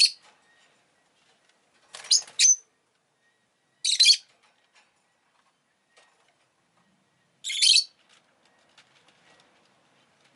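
Rosy-faced lovebird giving five sharp, high-pitched chirps, each a fraction of a second long, two of them close together about two seconds in and the last a little longer.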